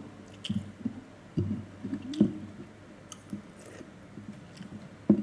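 A person chewing cooked ostrich offal close to the microphone: wet, squishy mouth sounds with irregular smacks and clicks, and a sharper click near the end.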